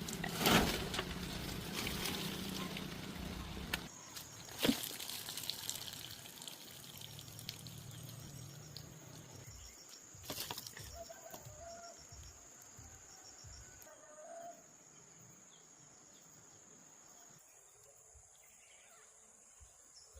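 Outdoor nature ambience: a steady high insect drone with birds calling, short fowl-like calls in the middle, and a few sharp clicks, the first about half a second in. It thins out and grows quieter in the last few seconds.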